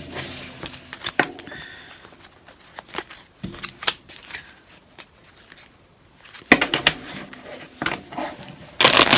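Tarot cards being shuffled and handled: scattered clicks and slaps of cards, with denser bursts of shuffling about two-thirds of the way in and near the end.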